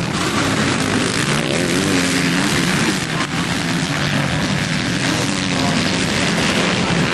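Motocross bike engines racing, revving up and down continuously, more than one engine at a time.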